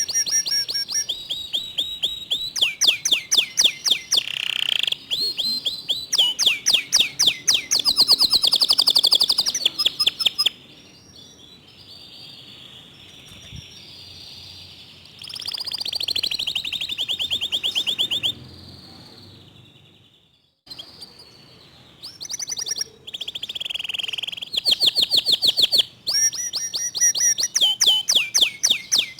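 Domestic canary (Indonesian local 'kenari lokal') singing fast, tightly packed trills: rapid runs of repeated high notes in loud bursts, broken by quieter warbling stretches and a brief gap about two-thirds of the way in.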